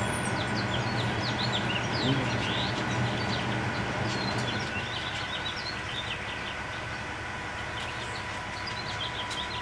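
Many small birds chirping in short, scattered calls, over a steady low hum.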